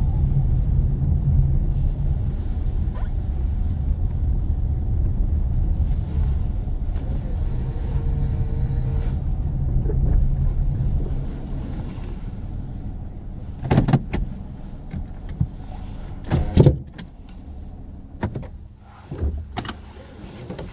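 Car cabin noise: the engine and road rumble run steadily, then fade away about twelve seconds in as the car slows. This is followed by a handful of sharp clicks and knocks at irregular intervals.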